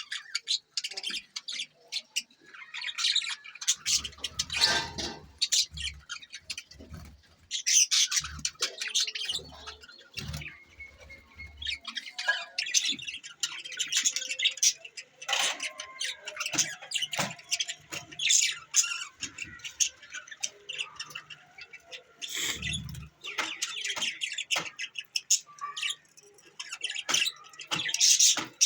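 Budgerigars chattering and warbling: a dense, busy run of quick chirps and squawks with short pauses, and a few soft low thuds in the first half.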